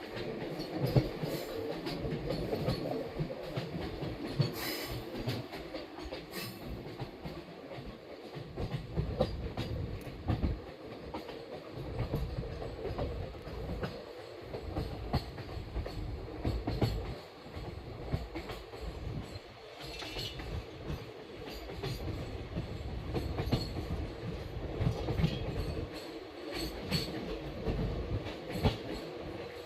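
Indian Railways passenger train running along the track, with a steady low rumble and frequent clicks and knocks of the wheels over the rails.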